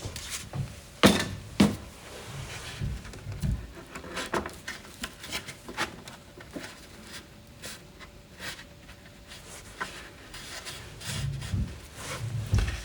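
Wooden toolbox parts being handled at the bench: two sharp knocks about a second in, then scattered lighter taps and clicks, and a few dull thuds near the end.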